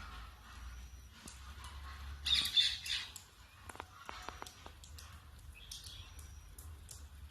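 A bird squawking a few times, loudest about two and a half seconds in, over a low steady hum.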